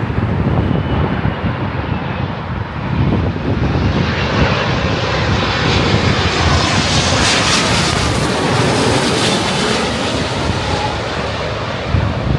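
Jet airliner flying low overhead on approach, its engine noise swelling to a peak about seven to nine seconds in and then easing off.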